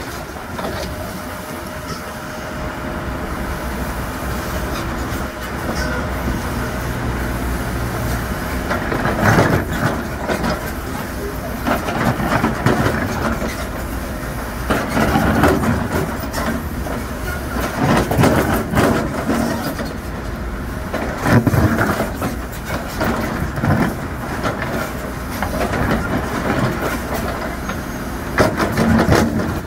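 Heavy diesel construction machine running steadily, with loud clanks and knocks every few seconds.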